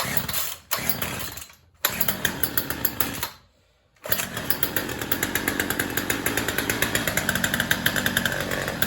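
Two-stroke chainsaw catching in short spurts and dying, three times, then firing up about four seconds in and running unevenly, barely wanting to idle. Gas is pouring out of it, which the owner suspects is a carburettor hung open and flooding it.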